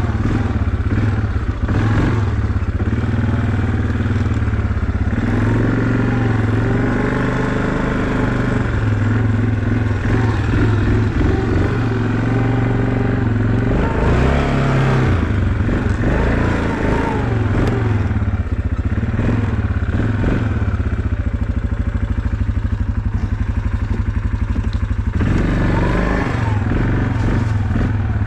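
Small vehicle engine running steadily as it is ridden, its revs rising and falling a few times around the middle.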